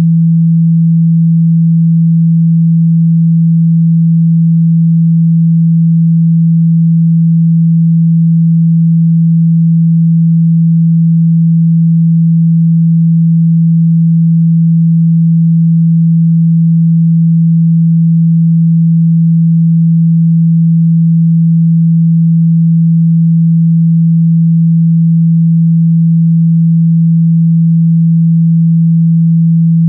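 A single steady 165 Hz sine-wave tone, held unchanged and loud: a low test tone played through a phone or speaker to shake water and dust out of the speaker grille.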